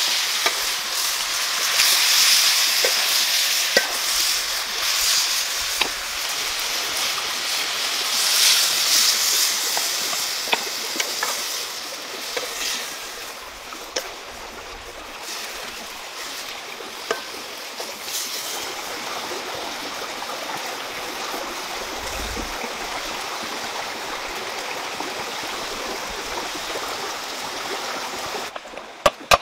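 Octopus and potato curry sizzling in a wok over a wood fire while a spatula stirs it, with scattered clicks of the spatula against the pan. The sizzle is loud for the first ten seconds or so, then settles to a softer hiss. A few sharp knocks come at the very end.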